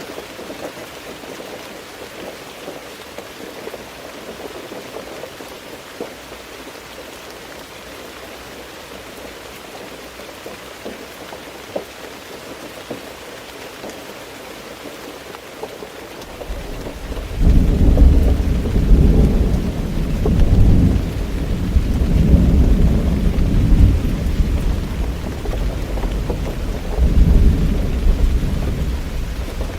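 Steady rain falling. About halfway through, a long roll of thunder rumbles in low and loud, swelling several times and still rolling at the end.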